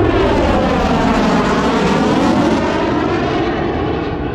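A low-flying airplane passing overhead, with a loud, rushing engine noise whose pitch pattern sweeps as it goes by. It eases off a little past halfway.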